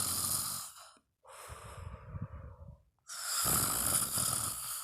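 A person voicing a sleeping character's snoring: two long, loud snoring breaths, each followed by a quieter breath.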